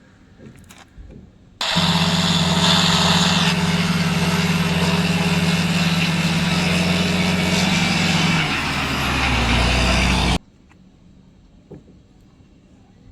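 Truck engine sound running steadily for about eight seconds, switching on and cutting off abruptly, its pitch dropping near the end.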